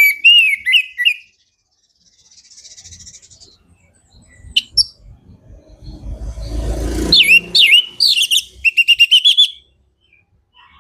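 Orange-headed thrush singing: a short burst of loud, slurred whistled notes at the start, a few fainter notes, then a longer phrase about seven seconds in that ends in a quick run of repeated notes. A low rustling noise builds just before the second phrase.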